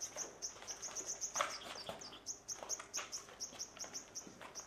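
A small bird chirping in a quick, even series of short high chirps, about four or five a second, with a few scattered dull knocks.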